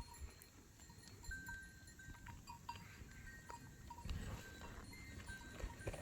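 Bells on a grazing flock of sheep clinking faintly and irregularly, many small clinks scattered throughout.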